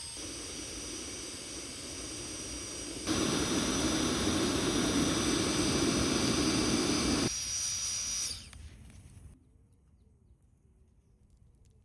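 Small electric air pump used as a blower on the fire, running with a steady hiss and high whine. About three seconds in it gets much louder, drops back about seven seconds in, and winds down to a stop around nine seconds.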